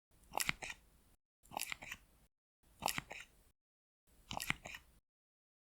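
Close-miked ASMR skincare handling sounds: four short, crisp, crackly bursts of about a second each, with silence between them.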